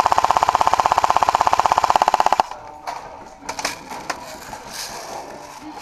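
Airsoft gun firing a full-auto burst, a fast, even rattle of about twenty shots a second that cuts off about two and a half seconds in. A few faint knocks follow.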